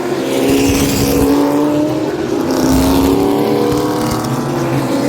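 Several race car engines running together around the track, a steady loud drone whose pitch drifts slowly up and down as the cars pass.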